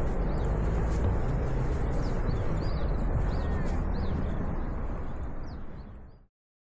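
A small songbird giving quick, high chirps about twice a second over a steady low rumble, all fading out near the end.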